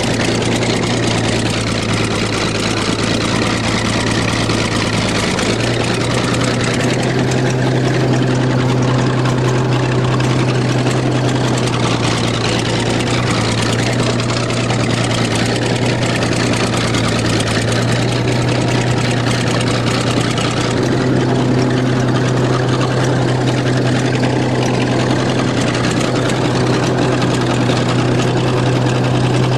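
A heavy engine running steadily for the whole stretch, its note shifting slightly about six seconds in and again around twenty-one seconds.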